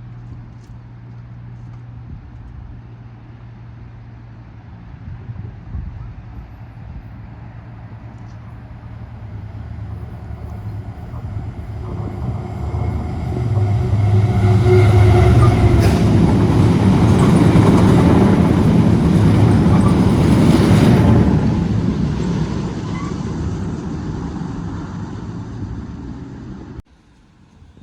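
Diesel train approaching and passing close by. A steady engine hum builds, the engine and wheel noise grow loud in the middle, then fade away before cutting off abruptly near the end.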